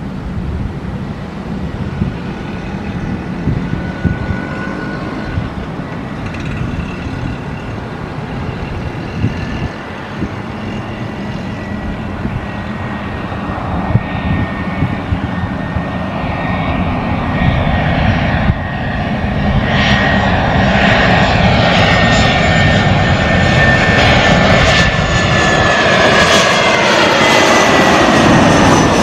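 Jet airliner on landing approach, its engines' high whine and low rumble growing steadily louder, the whine sinking slightly in pitch near the end as it passes.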